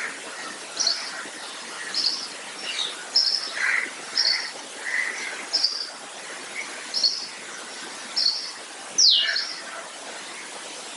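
Small birds chirping: short high chirps repeating about once a second, with one quick downward-sliding whistle about nine seconds in, over a steady background hiss.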